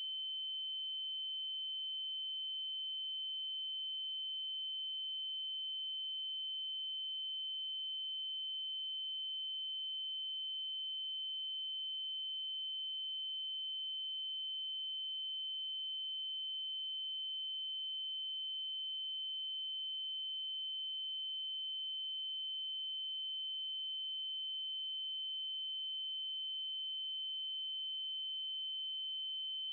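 Electronically generated 3072 Hz triangle-wave tone, held at one steady high pitch with faint overtones above it.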